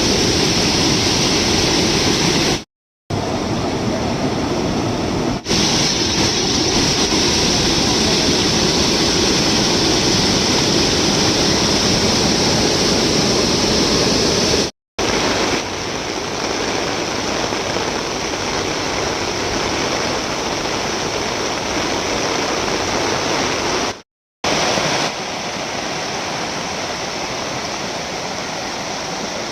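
Fast-flowing floodwater rushing steadily, in several spliced clips separated by brief silent cuts, slightly quieter in the later clips.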